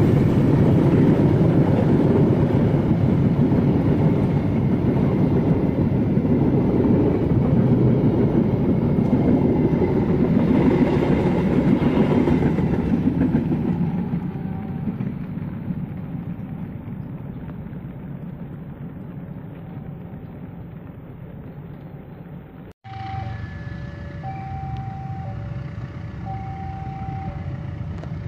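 A diesel-hauled train passing close by: a loud, dense rumble that fades away from about 14 s. Near the end, a level-crossing warning alarm sounds, two steady tones alternating high and low about once a second.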